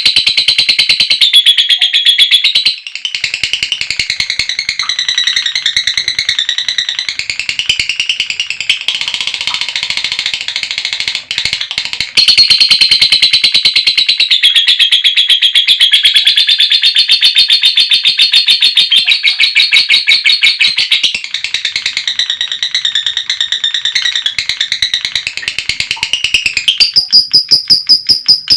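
Female lovebird 'ngekek panjang': a long, rapid, high-pitched chattering trill held for many seconds with only brief breaks. About two seconds before the end it changes to a steady string of evenly repeated shrill notes.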